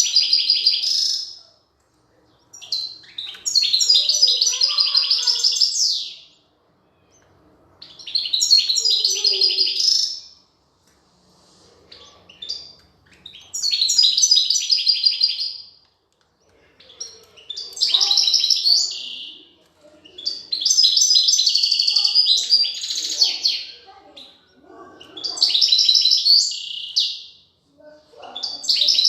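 European goldfinches twittering in repeated bursts of rapid, high chirps, each two to three seconds long with short pauses between.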